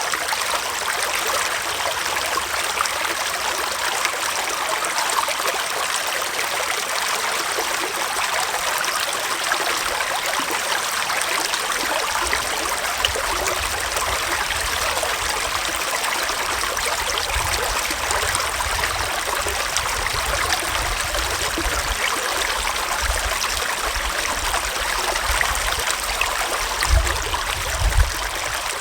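A small forest stream flowing and rushing steadily over rocks in winter. A low rumble joins about halfway through and swells briefly twice near the end.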